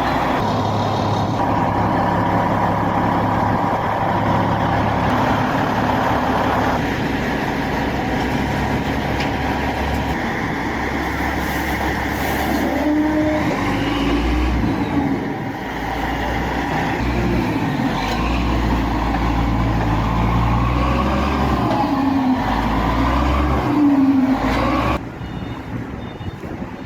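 Heavy diesel truck engines running and revving, the engine note shifting up and down several times, with an abrupt drop to a quieter sound near the end.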